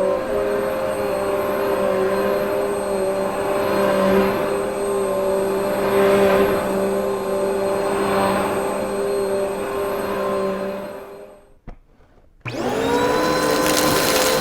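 Upright vacuum cleaner motor running steadily. It is switched off about 11 seconds in and winds down, a single click follows, and about a second later a vacuum motor is switched on, its whine rising as it spins up to speed.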